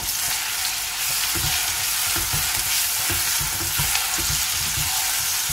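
Onions, capsicum and onion-tomato paste sizzling in hot oil in a pan, with a spatula stirring them in soft, irregular knocks and scrapes against the pan. The sizzle cuts off suddenly at the end.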